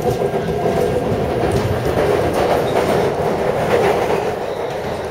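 Taipei Metro C371 electric train running along the line: a steady rumble and hum with faint clicks from the wheels.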